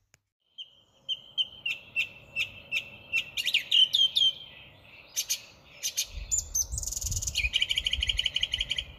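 Garden songbirds calling: a run of short, repeated chirps about three a second, then a fast, rattling, buzzy song in the second half, with a low rumble underneath.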